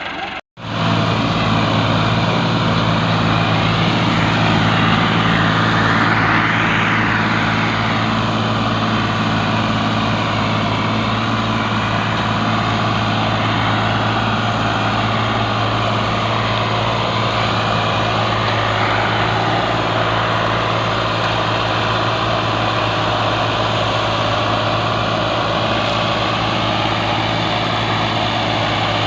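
Tractor diesel engine running steadily with a low, even pulsing drone, after a brief cut-out just under a second in.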